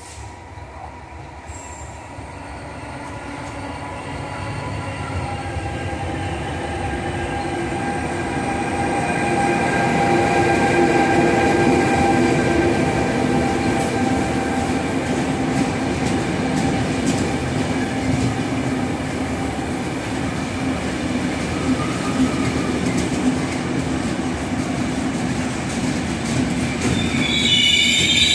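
Regional train of an E.464 electric locomotive and low-floor coaches arriving into the station, growing louder over the first ten seconds as it draws near. The coaches roll past with the wheels squealing, and a higher, shrill squeal starts near the end as the train slows.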